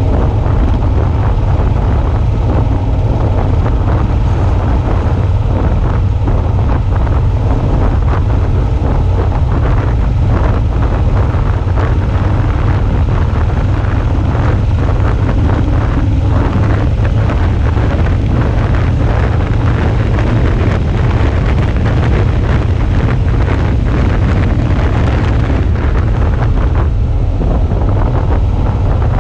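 Suzuki V-Strom 650's V-twin engine running steadily while riding, under heavy wind rumble on the action camera's microphone.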